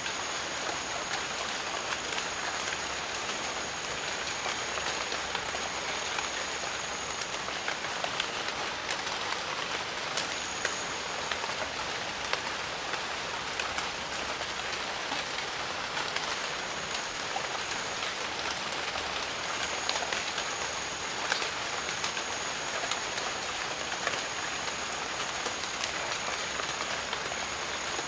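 Steady rain in a jungle, falling evenly with scattered sharp drop hits. A thin, high steady tone runs above it, cutting out for a couple of seconds about eight seconds in and briefly again later.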